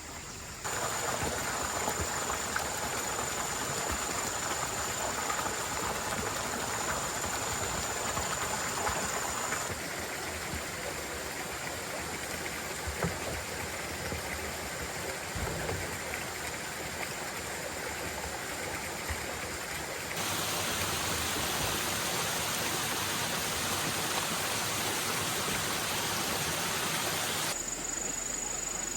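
Running water making a steady rush, like a stream or water poured for bathing; its level and tone change abruptly several times.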